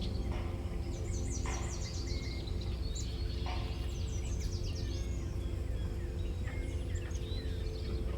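Birds chirping and giving short falling trills over a steady low rumble of outdoor ambience.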